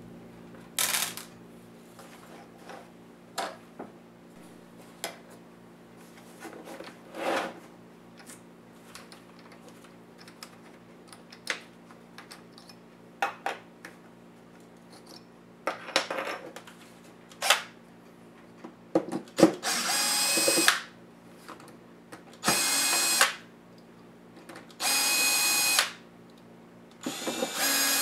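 Power screwdriver backing out laptop case screws, running in short bursts of about a second: once near the start and four times in the second half. Small clicks and taps of screws and plastic parts fall between the bursts, over a steady low hum.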